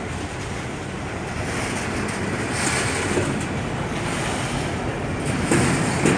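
Freight train's hopper wagons rolling past close by: a steady rumble of steel wheels on rail, with a couple of knocks near the end.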